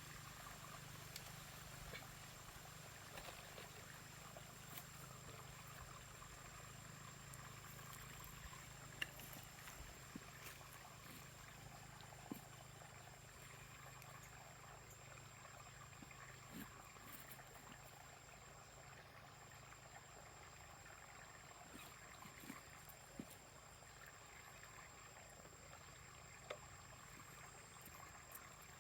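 Faint, steady trickle of a forest stream, with a few small clicks scattered through it.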